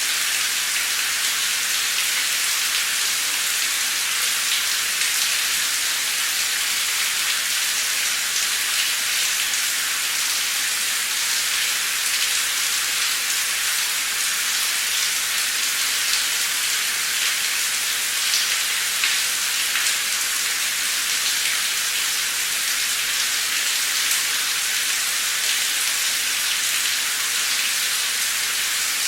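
Heavy torrential rain pouring steadily: a dense, even hiss with scattered sharper drop hits.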